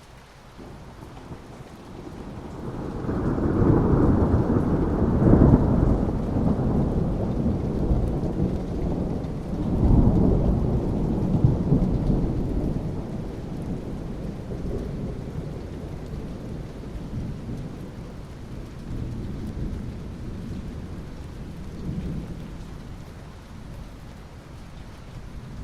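Steady rain with a long rolling peal of thunder. The low rumble swells about two seconds in, is loudest twice (a few seconds in and again around ten seconds), then slowly dies away under the rain.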